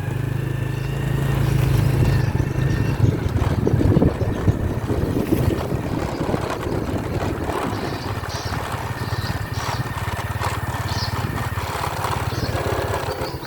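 Motorbike engine running at low speed, with a dense twittering of edible-nest swiftlets from a swiftlet house over it.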